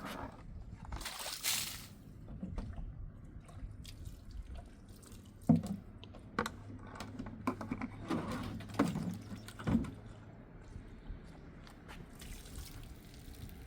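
Water being poured and splashed, with a few sharp knocks about halfway through.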